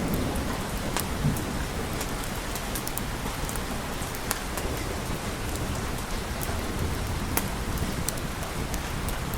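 Steady rain falling, with scattered sharp ticks of drops, as a low thunder rumble dies away in the first second.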